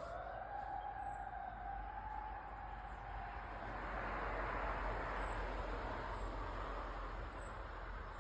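Emergency vehicle siren wailing, its tone slowly rising and then fading out within the first few seconds. A passing vehicle follows, its road noise swelling to a peak about halfway through and then falling away.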